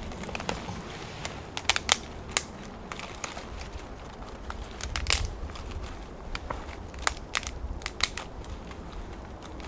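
Dry twigs and small branches snapping and crackling, breaking firewood by hand: a run of irregular sharp cracks, loudest about two seconds in and again about five seconds in.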